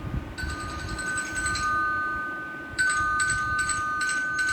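A two-tone chime ringing, struck twice about two and a half seconds apart, each ring held until the next strike.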